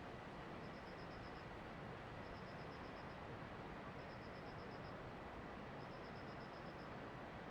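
Steady, even hiss, with a high-pitched chirp of six or seven quick pulses repeating about every one and a half seconds.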